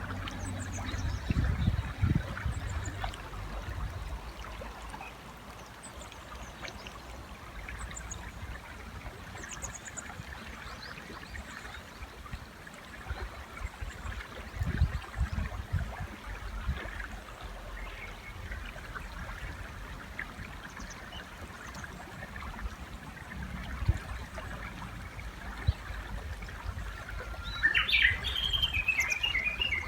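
River running steadily, with faint high bird chirps scattered throughout. Near the end a Japanese bush warbler calls loudly: a rising note followed by a quick run of repeated notes.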